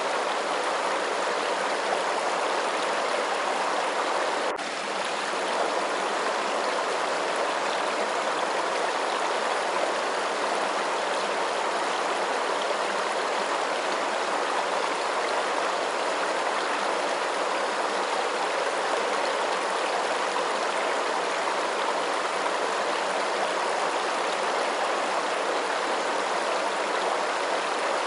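Steady, even rush of running water, with one brief dip in level about four and a half seconds in.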